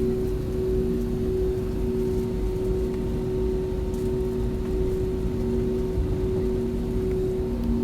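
Airbus A320 cabin noise on the ground with the jet engines at idle: a steady hum over a low rumble, with a second, lower tone that fades in and out.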